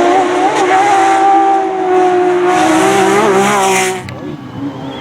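Rally car engine running at high revs with a nearly steady note that wobbles a little, with a hiss of tyres or gravel toward the end; the sound drops away suddenly about four seconds in.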